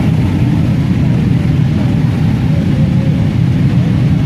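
Steady low rumble of a moving motorcycle, loud and even with no distinct events.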